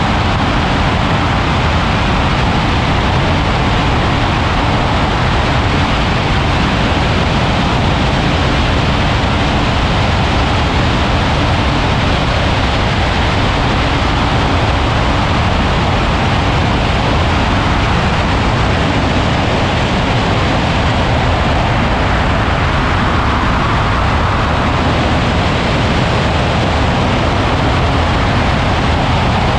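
Ultralight aircraft in flight: a steady, loud rush of wind and engine noise that holds at one level throughout.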